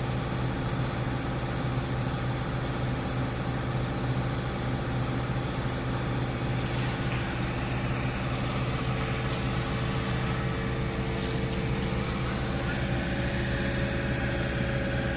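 Diesel engine of a Komatsu PC50UU-2 mini excavator running steadily, with a few short clicks and hisses between about seven and twelve seconds in.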